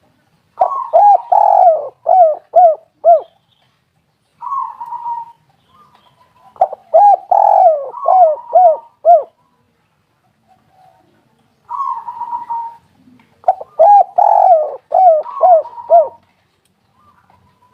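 Spotted dove cooing in three phrases of about five or six hooked, falling coos each, roughly six seconds apart, with shorter, softer coos between the phrases.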